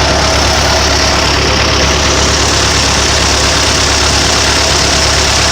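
Large vehicle engine idling steadily, a loud, unbroken running noise with no change in speed.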